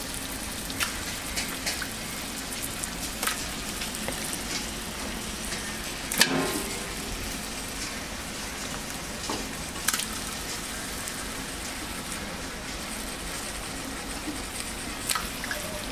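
Biryani masala sizzling steadily in oil in a large cooking pot, with a few sharp knocks scattered through. The loudest knock comes about six seconds in.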